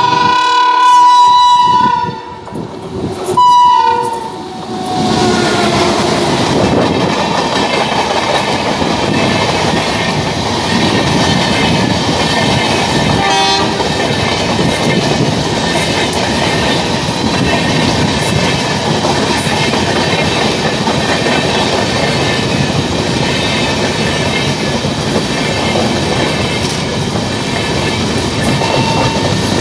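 WAP-7 electric locomotive's air horn sounding twice as it approaches: a blast of about two seconds, then a short one. Then the steady rumble and wheel clatter of a long rake of LHB passenger coaches running past close by.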